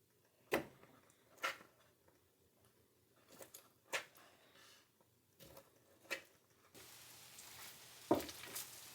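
A spoon scooping food from a pot, heard as a few scattered soft clinks and scrapes.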